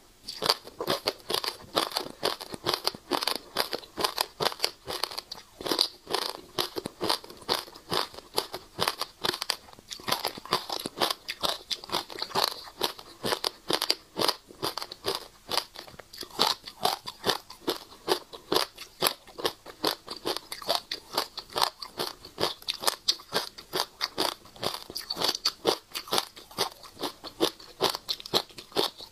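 Close-miked chewing and crunching of passion fruit seeds: a rapid, continuous run of small sharp cracks.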